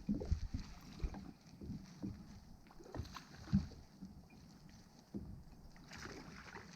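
Faint, scattered light knocks and bumps on a fishing kayak, with low puffs of wind on the microphone.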